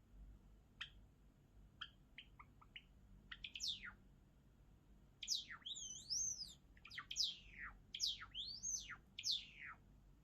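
Java sparrow singing: a few scattered short chips and a falling note, then from about five seconds in a quick run of sweeping whistled notes gliding up and down.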